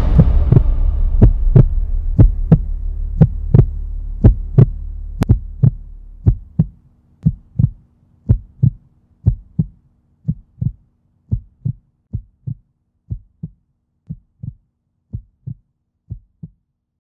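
Heartbeat sound effect: paired lub-dub thumps about once a second, growing steadily fainter. A low drone under them fades out in the first six seconds.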